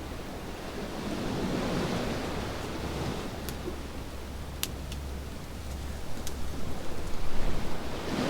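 Waves washing onto a beach, swelling about a second in and again near the end, with a few sharp crackles from a wood campfire.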